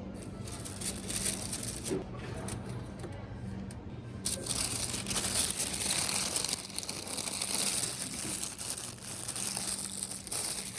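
Packaging being handled and crinkled, with a few light clicks at first, then dense crinkling from about four seconds in; a steady low hum runs underneath.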